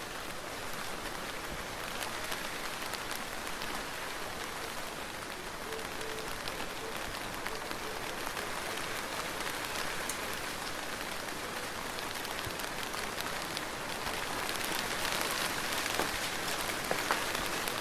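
Soft, steady rain falling: an even hiss with scattered individual drop ticks, growing a little louder over the last few seconds.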